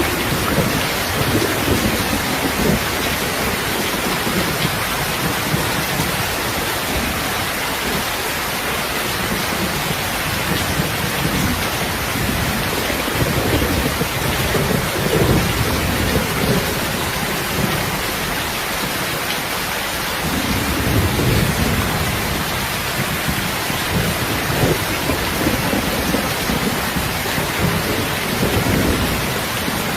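Steady rain with an even hiss, with low rumbles that swell and fade several times, most strongly about halfway through and again about two-thirds of the way in.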